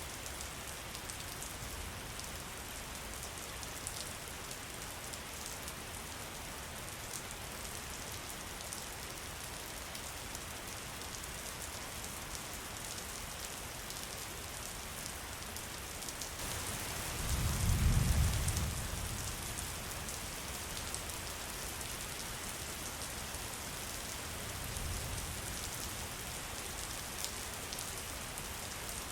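Steady rain falling. A low rumble swells for about two seconds a little past the middle, and a fainter one comes near the end.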